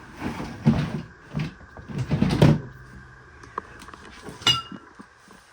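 Knocks, thuds and rattles of a bottom-freezer drawer being slid and handled, with a sharp metallic clink about four and a half seconds in.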